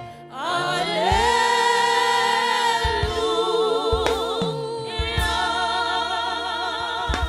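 A gospel singer's voice sings long held notes without words. The voice glides up at the start and then sustains notes with a strong vibrato, over a few low thuds.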